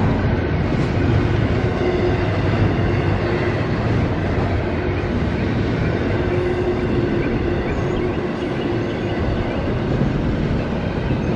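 Freight train rolling past: a continuous steady rumble of rail cars on the track.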